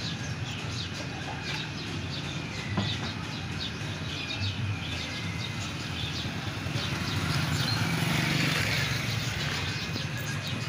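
Many small birds chirping at once in quick short chirps, over a steady low rumble. It grows a little louder about three-quarters of the way through.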